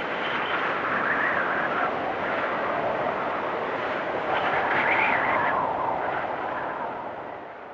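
Blizzard wind gusting in a steady rushing noise, swelling twice and fading near the end.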